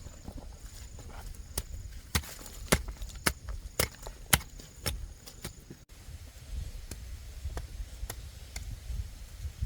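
A series of sharp knocks and clicks at irregular intervals, thickest in the first half and sparser later, over a low steady rumble.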